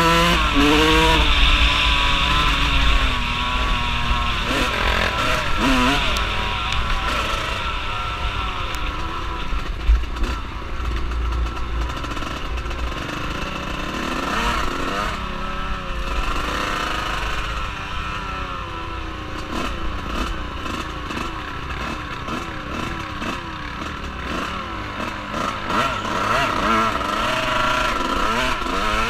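Engine of an off-road vehicle being ridden, its revs rising and falling over a steady low rumble.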